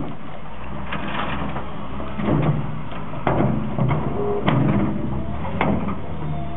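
Heavy machinery's diesel engine running steadily under load, with irregular clanks and knocks from the machine straining at a tree stump.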